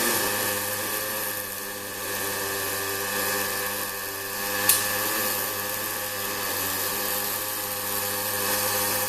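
ABB welding robot running with a Fronius CMT (cold metal transfer) welding system: a steady welding hiss and buzz over a machine hum, with one sharp click about halfway through.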